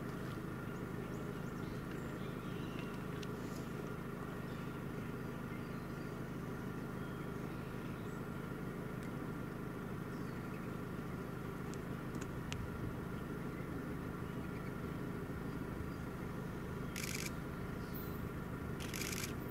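Steady low rumble with a faint hum from a distant approaching Amtrak passenger train, and two brief hissing sounds near the end.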